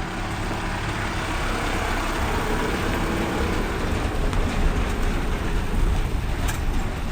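Vehicle on the move: a steady haze of engine and road noise with a heavy low rumble, slowly getting louder.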